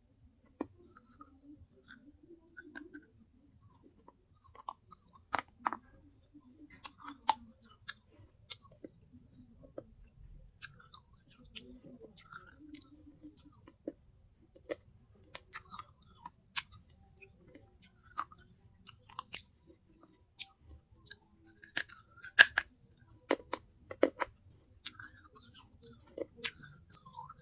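Close-miked chewing of pieces of baked clay pot: irregular sharp crunches and crackles, with the loudest cluster of crunches late on.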